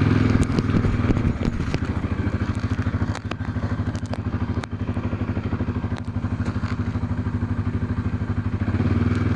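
Quad bike engine running steadily at low revs, with a fast, even pulsing, and a few sharp clicks scattered over it.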